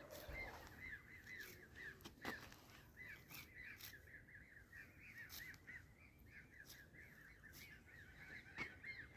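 Faint bird calls: a steady run of short, high, rising-and-falling notes, about three or four a second, with a few sharp clicks in between.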